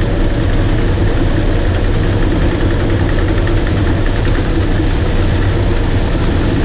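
Bulldozer's diesel engine running steadily and loudly, a deep hum over a dense mechanical rumble.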